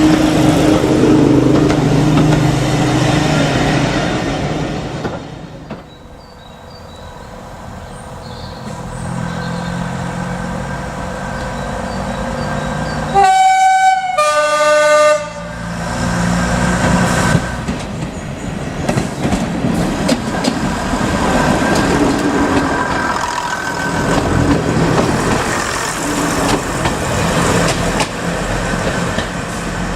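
A train running along the line, its sound dropping away about five seconds in and building again. Halfway through, a train horn sounds two notes over about two seconds, the loudest sound here, before the train runs on.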